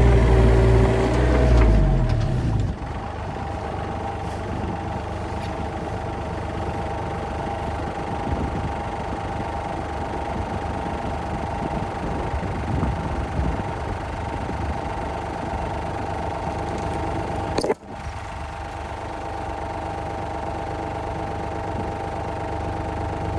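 An engine running fast, then slowing about two seconds in and settling into a steady idle. A single sharp click comes near the end.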